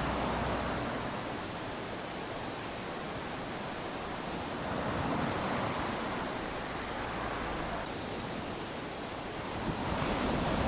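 Small waves lapping onto a sandy beach, a steady wash of surf that swells as each wave comes in, about every five seconds.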